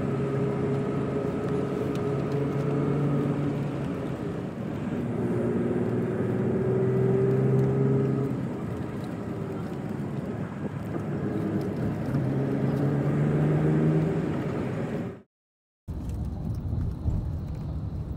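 Tour coach engine and road noise heard from inside the cabin, with the engine note rising and falling as the bus changes speed. The sound cuts out for a moment near the end, then resumes.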